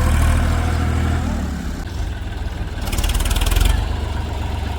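Heavy diesel engine running at low speed: a steady low drone that turns into a slower, uneven low pulsing about two seconds in. A brief burst of rapid, fine rattling about three seconds in is the loudest sound.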